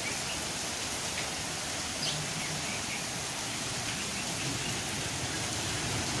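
Heavy rain pouring steadily, a continuous even hiss.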